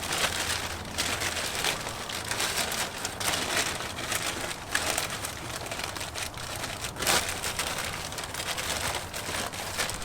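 Irregular crinkling and rustling as a protective cover is wrapped over the engine bay's air filter and alternator to keep degreaser and water off them.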